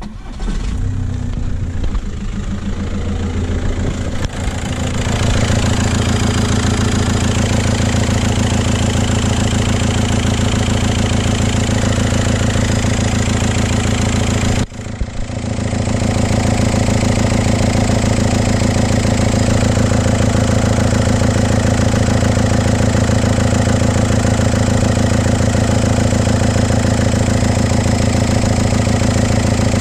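VW Golf Mk5 TDI diesel engine starting and settling into a steady idle. It keeps running without stalling while the repaired crank sensor wire is tugged, a functional check of the wiring repair.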